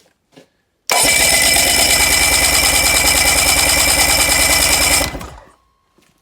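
Electric starter cranking a 30 hp Mercury two-stroke outboard with its spark plugs out and a compression gauge screwed into a plug hole, for a compression test. It is a fast, even, loud chugging that starts abruptly about a second in, runs for about four seconds, then cuts off and spins down.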